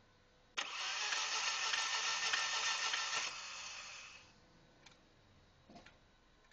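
1997 Audi A4 1.8T's starter motor cranking the engine for about three seconds without it catching: the engine won't start, here because of a failed timing chain tensioner. The sound starts suddenly, then dies away, with a couple of faint clicks afterwards.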